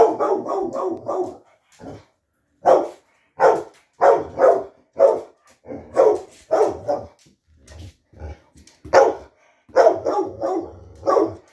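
Pet dog barking repeatedly: a quick run of short barks at the start, then single barks at irregular intervals with short pauses.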